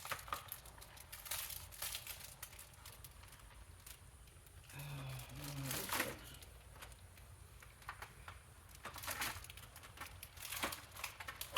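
Scattered rustling, crinkling and small clicks of a used Dyson Ball upright vacuum's plastic parts being handled and checked over.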